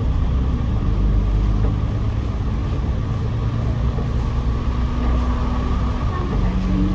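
Double-decker bus engine running steadily under way, heard from the upper deck as a low drone with road and body noise over it; the engine note shifts about six seconds in.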